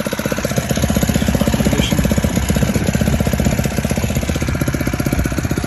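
Small 82cc 5 hp four-stroke air-cooled petrol outboard motor running at low throttle with a rapid, even putt-putt from its exhaust. It is a little louder from about half a second in.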